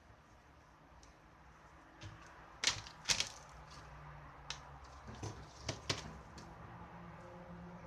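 A series of about seven sharp clicks and knocks of hard objects, the loudest pair about a third of the way in. A low steady hum runs underneath, and faint tones begin to rise in pitch near the end.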